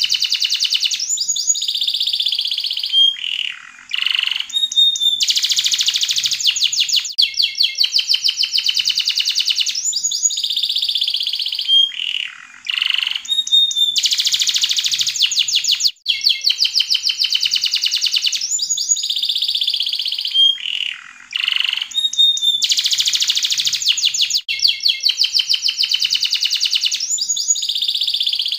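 Yellow domestic canary singing without pause: long, fast trills and rolls broken by short whistled notes. The same song sequence repeats about every eight or nine seconds.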